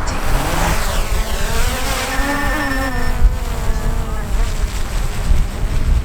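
Small quadcopter drone's propellers buzzing, a whine of several tones that rises and then falls as the motors speed up and slow down.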